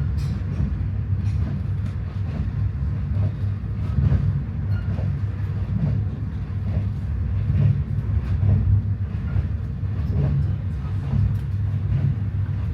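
Passenger train carriage in motion, heard from inside: a steady low rumble from the running gear on the rails, with faint light knocks now and then.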